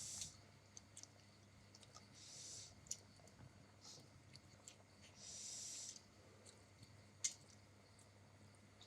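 Quiet eating sounds close to the microphone: faint mouth clicks, one sharper click near the end, and two short soft hisses of breath.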